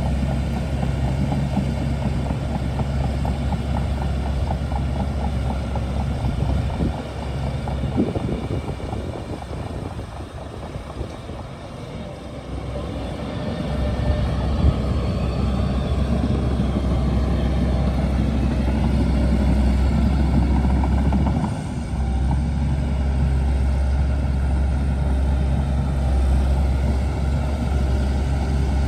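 Diesel engine of a Shantui DH17C2 bulldozer running with a steady low hum. It eases off about seven seconds in and builds back up about fourteen seconds in, with a brief dip a little past twenty seconds.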